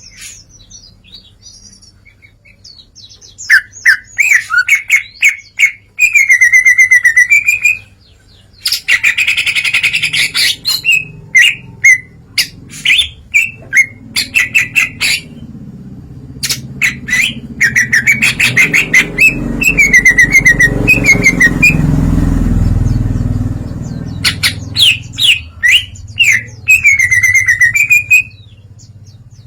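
Green leafbird (cucak ijo) singing loudly in bursts of varied whistled phrases and quick trills, showing off its mimicked repertoire, with a fast, dense trill about nine seconds in. A low rumble swells and fades behind the song in the middle.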